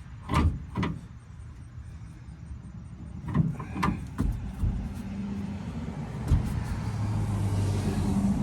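Scattered clicks and knocks from a spare-tire winch as it is cranked and the tire is drawn up under a pickup, with no clear final click of the winch locking. From about halfway in, a steady low hum builds and grows louder.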